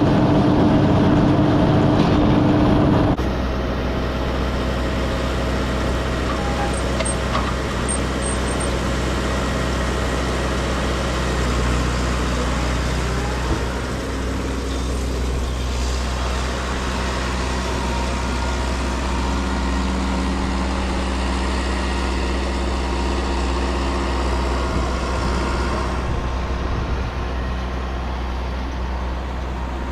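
Tractor engine running steadily. It is louder for the first three seconds or so, then drops suddenly to a slightly quieter steady run.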